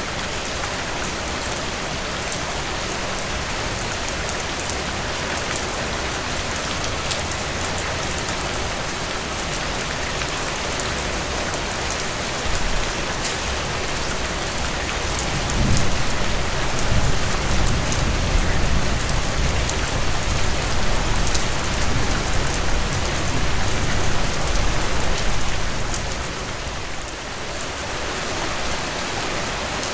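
Steady rainfall falling on surfaces, an even noise with scattered drop ticks. A deeper low rumble swells in about halfway through and dies away a few seconds before the end.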